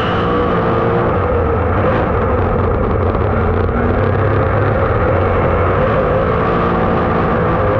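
Dirt-track race car engine running steadily at speed, a loud continuous drone.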